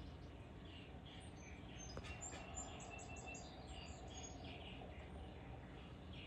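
Small songbirds chirping repeatedly, with a quick run of thin, high notes about two to three seconds in, over a steady low background noise.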